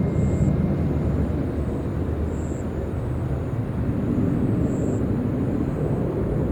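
Jet airliner engines: a steady low rumble with no sharp events.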